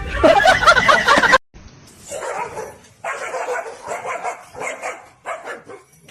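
A dog barking and yipping in a run of about five short calls.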